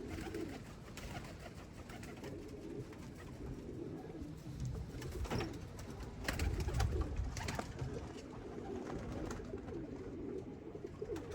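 Domestic pigeons cooing: a steady run of low, wavering coos, with a few sharp clicks and a short low rumble partway through.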